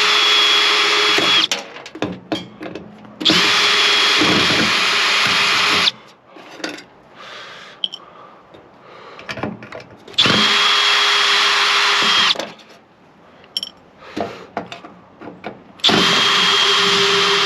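Power drill-driver backing screws out of a microwave oven's casing, running in four steady bursts of two to three seconds each, each one spinning up at the start, with small clicks of handling between the runs.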